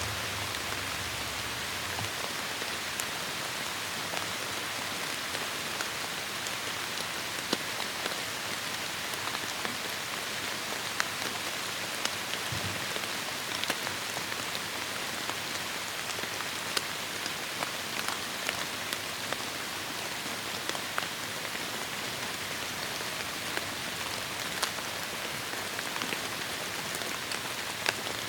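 Heavy rain falling steadily on forest foliage, a dense even hiss with many distinct drops ticking close by.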